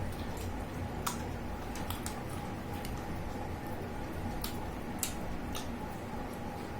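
Scattered soft clicks and smacks of people eating roast chicken with their hands, about a dozen small sounds at uneven intervals over a faint steady hum.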